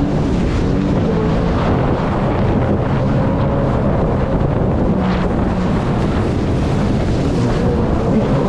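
Sea-Doo personal watercraft engine running at speed, its note drifting a little up and down with the throttle, with wind buffeting the microphone.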